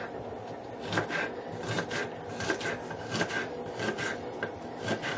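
Kitchen knife chopping a stalk of celery: a steady run of short scraping cuts, about three a second.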